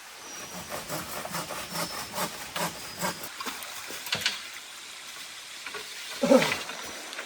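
Steady rain hiss with a run of irregular knocks and rustles through the first four seconds or so, and one louder thud about six seconds in.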